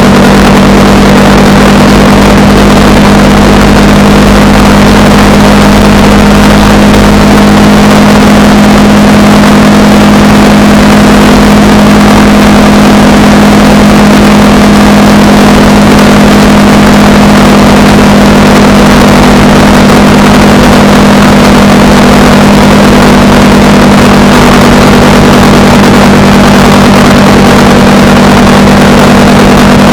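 Honda Rebel 300 single-cylinder motorcycle engine running at a steady cruising speed, its pitch holding even, under a loud, constant rush of wind noise.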